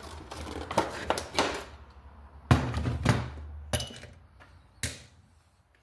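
A few separate knocks and clunks of hard objects being handled and set down, the loudest about two and a half seconds in, over a low hum that stops partway through.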